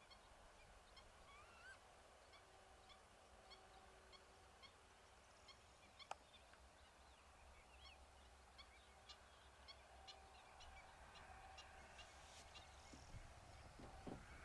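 Near silence with faint, scattered bird chirps and a single light click about six seconds in.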